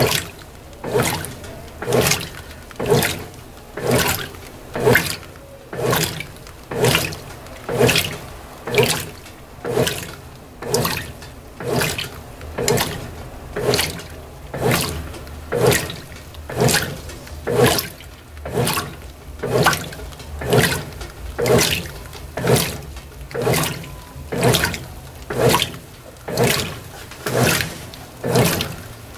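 Brastemp BWT12 top-loading washer's agitator on its turbo agitation profile, sloshing water and clothes in a regular surge about once a second.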